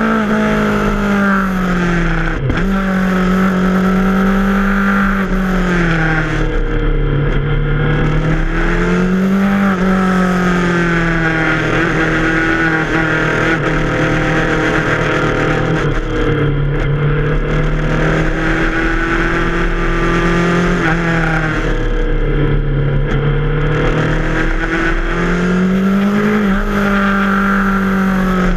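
Yamaha FZ6R's 600 cc inline-four engine under way. Its note rises and falls over and over as the throttle is opened and rolled off, over steady wind and road noise.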